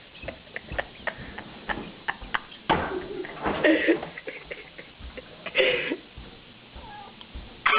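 A cat meowing twice, a long call and then a shorter one, over scattered light clicks and taps.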